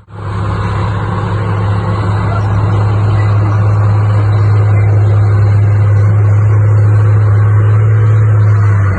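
Heavy diesel engine of earthmoving machinery running steadily under load, with a deep, even hum and mechanical clatter.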